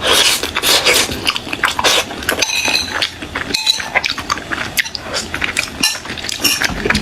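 Close-miked eating sounds: a dense run of small clicks and crackles, with utensils clinking against a dish several times.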